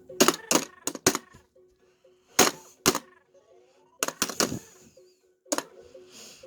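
Mattel Whac-A-Mole Arcade electronic game being played: sharp plastic whacks on the moles in quick clusters, each followed by electronic beeps and sliding sound effects, over a looping electronic tune with a steady pulse.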